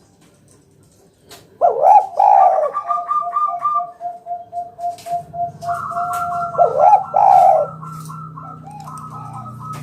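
Spotted dove (tekukur) cooing: after a quiet start, loud coos come about a second and a half in and again about seven seconds in, joined by a long even run of short repeated notes.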